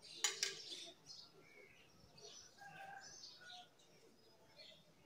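Faint bird chirps throughout, with one short sharp click about a third of a second in.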